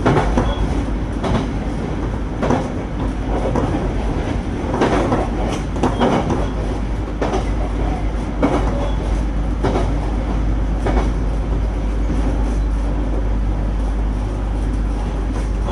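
JR Kyushu 817 series electric train running between stations, heard from inside the car: a steady rumble with the wheels clicking over rail joints roughly every second and a bit.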